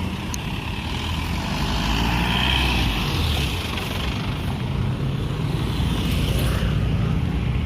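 Road vehicle engines and traffic noise, a steady low rumble that swells a little twice.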